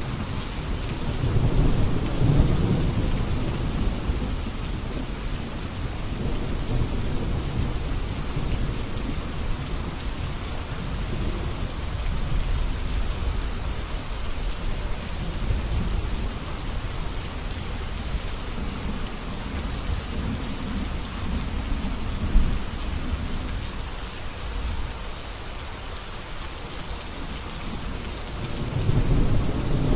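Steady rain falling, with low rolling thunder that swells a second or two in and again near the end. A single short sharp knock stands out about two-thirds of the way through.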